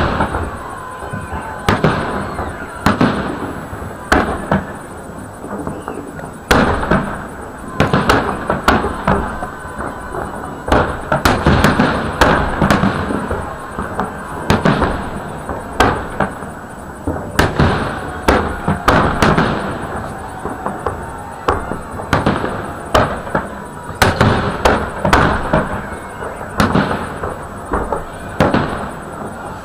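Large aerial firework shells of a salute display bursting in rapid salvos: many sharp bangs, at times several a second, with crackling between them.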